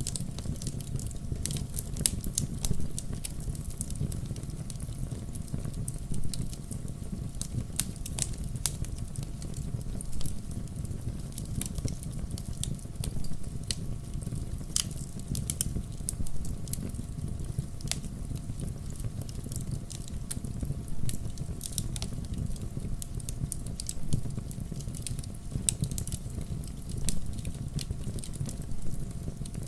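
Wood campfire burning: a steady low rumble of the flames with frequent irregular sharp crackles and pops.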